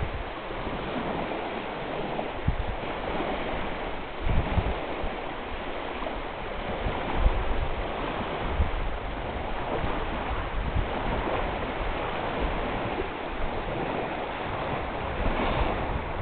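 Strong wind blowing over open water with waves splashing steadily, and gusts now and then rumbling on the microphone.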